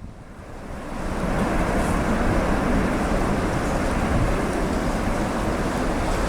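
Strong wind buffeting the microphone: a steady rushing noise that drops away at the start and builds back up over the first second.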